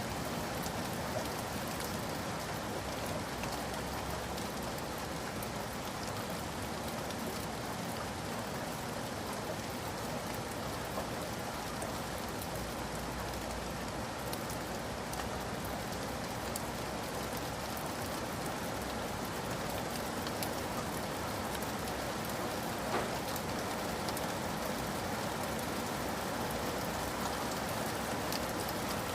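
Steady rain falling, a constant hiss with the scattered ticks of individual drops.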